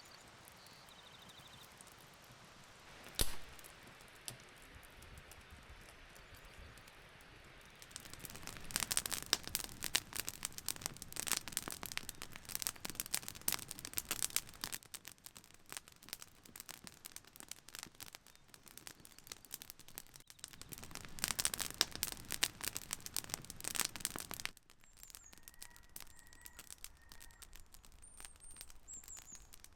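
Campfire crackling with dense pops and snaps for about sixteen seconds, then cutting off abruptly. A single sharp knock sounds about three seconds in, and a few faint bird chirps follow near the end.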